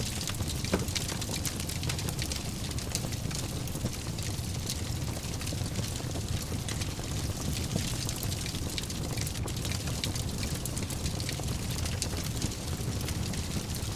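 Fire burning in a fireplace: a steady low rumble of flames with frequent small crackles and pops, one sharper pop about a second in.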